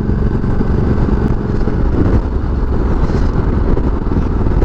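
Ducati Multistrada 1200S L-twin engine running steadily at riding speed, mixed with a heavy, steady low rumble of wind on the helmet microphone.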